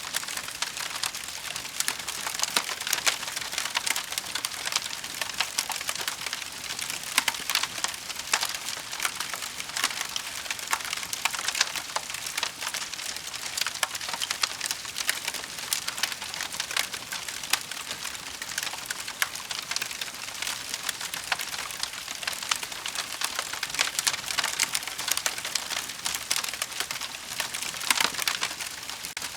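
Wood fire burning in a fireplace: a steady hiss of flames with many small sharp crackles and pops all the way through.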